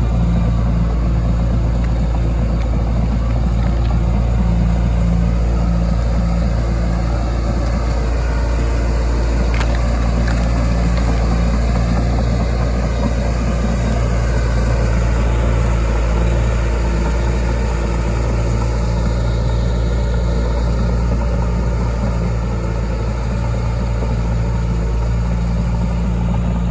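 John Deere 450G crawler dozer's diesel engine running steadily under load, with one faint knock about ten seconds in.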